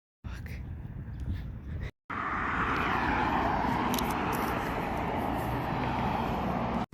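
Quiet outdoor street ambience, then after a cut about two seconds in, the loud steady rushing noise of a passing vehicle, its pitch sliding slowly down. It stops abruptly at a cut near the end.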